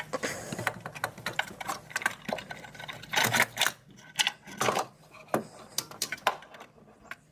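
A starter motor being worked free and pulled out of the engine bay: an irregular run of metal clicks, clunks and scrapes as it knocks against the engine and its surroundings.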